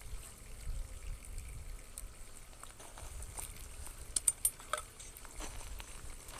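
Scattered light clicks and knocks of beehive parts being handled, with a quick run of sharp clicks about four seconds in, over a low rumble.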